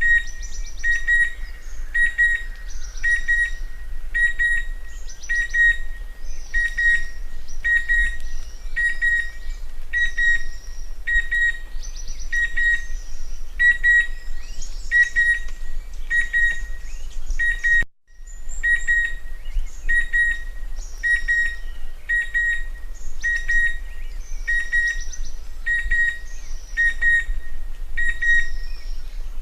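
Chestnut-winged cuckoo calling: a steady series of short, clear whistled notes, about one a second, with other birds chirping higher behind it. The sound drops out for a moment about halfway through.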